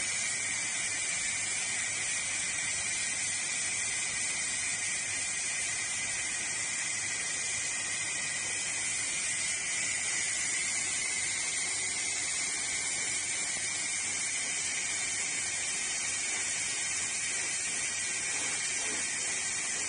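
Pulsed fiber laser cleaning a tire mould: a steady hiss from the beam ablating the surface, with a thin high whine running through it.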